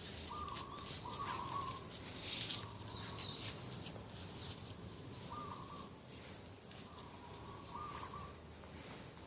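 Dove cooing outdoors in short repeated notes, with small birds chirping higher, most clearly about three seconds in.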